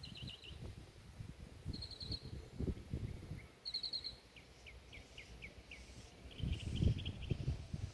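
Small songbirds calling: short, quick high trills of a few notes repeated every couple of seconds, a run of about seven downward-slurred notes halfway through, and another trill near the end. A low rumble underneath, loudest near the end.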